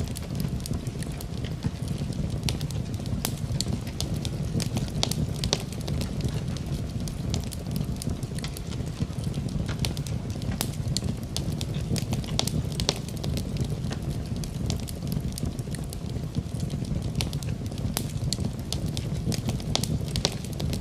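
Fire burning in a fireplace, crackling with frequent irregular sharp pops over a steady low rumble of the flames.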